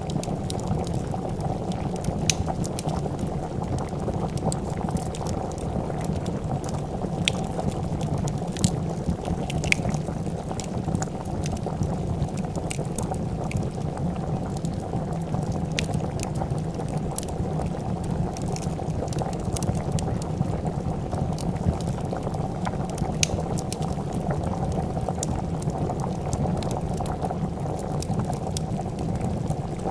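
A pot of soup bubbling at a steady boil, with scattered sharp pops and crackles of a wood fire over it.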